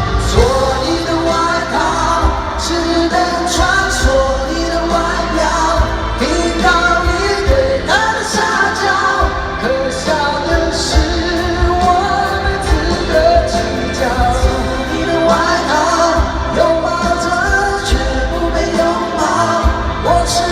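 Live Mandarin pop-rock music played by a band, with sung vocals over a steady beat.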